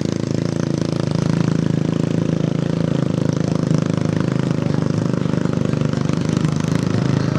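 A vehicle engine running steadily at a nearly constant pitch.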